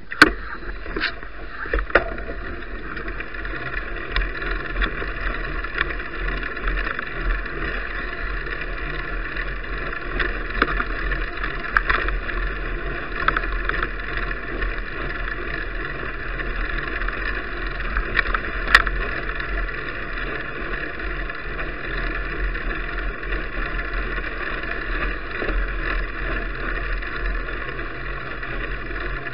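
Steady rushing ride noise from a bicycle on the move: tyres on the road and wind on the camera's microphone, with a few sharp clicks.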